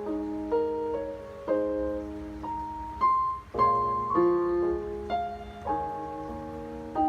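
Piano playing a slow melody over chords, each note struck and left to ring and fade before the next.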